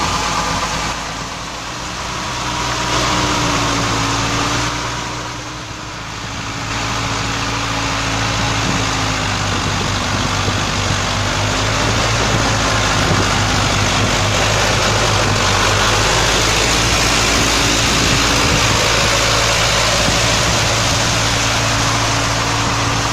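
Sonalika DI 60 RX tractor's diesel engine running steadily, with its loudness easing and swelling twice in the first few seconds before settling to a constant running note.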